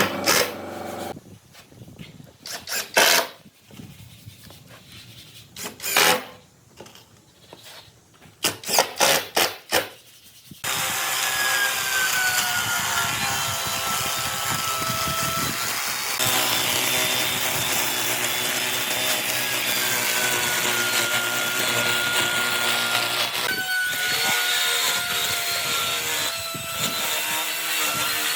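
Several sharp knocks and taps on wood, then, about ten seconds in, a power tool starts up and runs steadily on wood, with a thin whine that slides down in pitch now and then.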